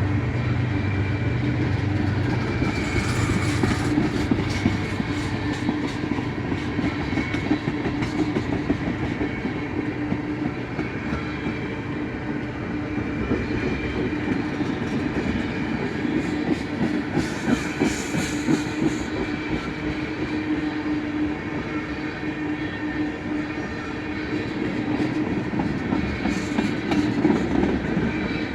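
Freight train of oil tank cars rolling steadily past at close range: a continuous rumble of steel wheels on rail, broken by repeated clicks as the wheels cross rail joints, with a thin high tone running over it.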